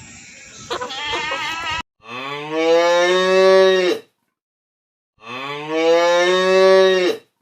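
A cow mooing twice, each moo long and steady, about two seconds, with a second's pause between them. Before that, a goat bleats briefly at the start.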